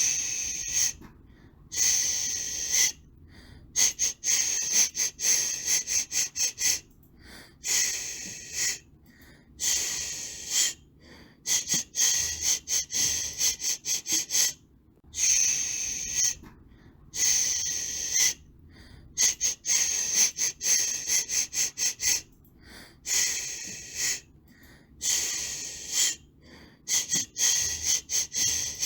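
White noise for soothing a baby, played as a rhythmic hiss: a longer hiss, then a run of quick fluttering pulses, the pattern repeating every two to three seconds with short gaps between.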